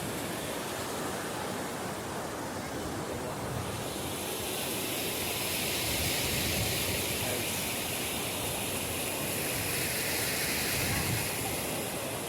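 Steady rush of a fast-flowing stream, swelling and getting brighter about four seconds in.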